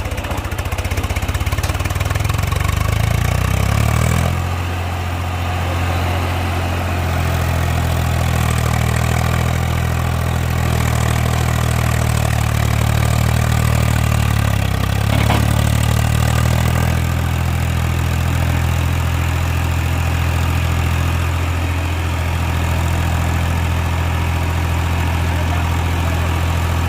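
Tractor diesel engine revving up about four seconds in, then holding steady at high revs, a sign it is working under heavy load on a steep climb; the engine note eases off at the very end.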